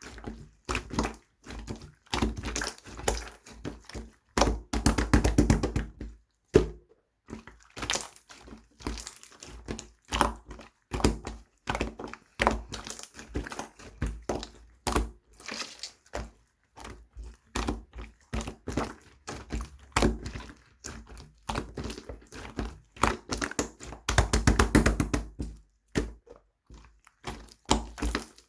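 Slime being pressed and squished by hand, giving a steady run of sharp clicks and pops from trapped air, thickening into dense crackling flurries twice.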